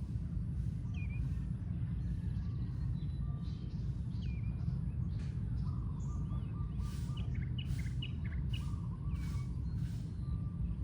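Bird calling repeatedly, a short upward-hooked chirp about every second and a half, turning into a quicker run of chirps from about six seconds in, over a steady low rumble.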